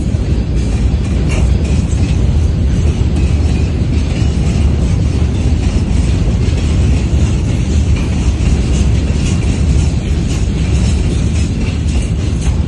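Freight train rolling past: a steady, loud low rumble of steel wheels on rails, with scattered clicking as the wheels cross rail joints.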